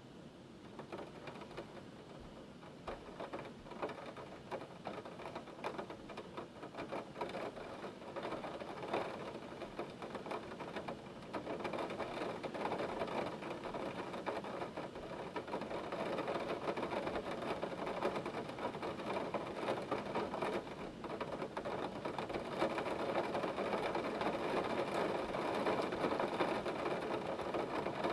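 Hailstones pelting down in a dense, rapid rattle of countless small hits, growing steadily louder as the hailstorm sets in.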